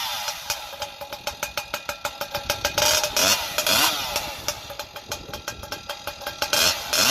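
Husqvarna 592 XP chainsaw with a prototype expansion pipe being pull-started cold: several starter-cord pulls with short rising whirs, and the engine popping without settling into a run. It is hard to start after fresh tuning changes in the cold.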